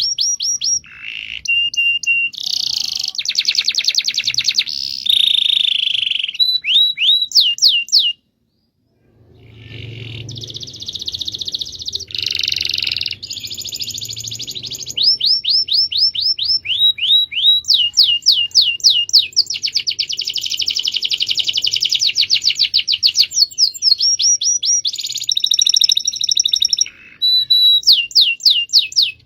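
Domestic canary singing a long rolling song of fast trills and rapid runs of repeated sweeping notes. The song breaks off about eight seconds in for roughly a second of silence, then fades back up and carries on.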